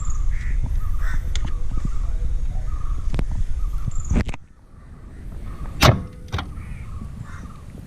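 Short, repeated bird calls over a low rumble. The rumble drops away abruptly about four seconds in, and one sharp click comes about a second and a half later.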